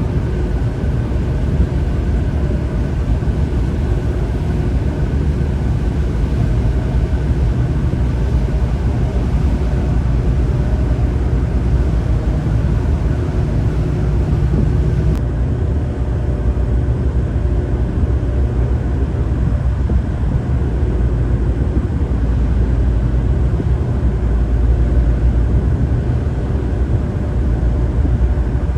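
Tugboat engine running steadily, a loud, even low drone with a constant hum. The hiss above it drops off suddenly about halfway through.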